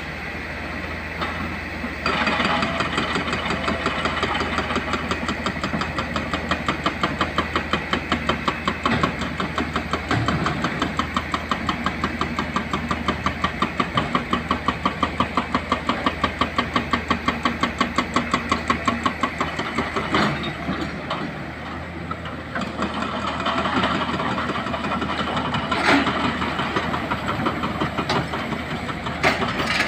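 Hydraulic rock breaker on an excavator hammering rock in fast, even blows over the running diesel engine; the hammering stops about twenty seconds in, leaving the engine running with a few scattered knocks.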